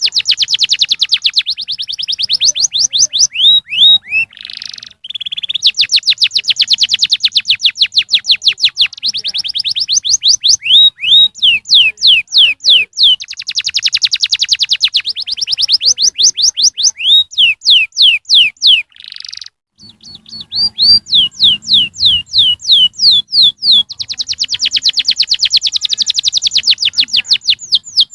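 Canary singing: long, rapid trills of repeated notes, each phrase a fast run of quick sweeping whistles, switching from one trill type to the next with brief breaks between phrases.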